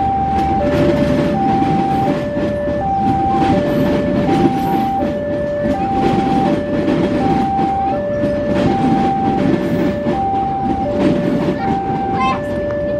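Passenger train coaches rumbling and clattering past on the rails, while a railway level crossing alarm sounds a steady two-tone warning, alternating high and low about every 0.7 s.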